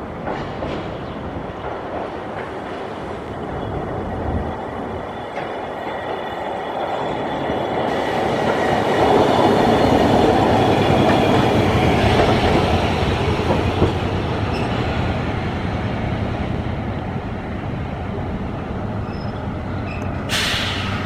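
Hiroshima Electric Railway streetcar running on its rails through a tram stop, the rumble of the wheels growing to its loudest about halfway through, with a thin wheel squeal over it. A short sharp hiss sounds near the end.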